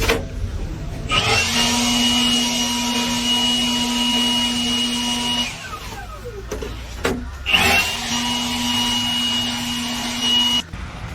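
A power tool's motor runs steadily twice. After the first run it winds down with a falling pitch; the second run cuts off suddenly.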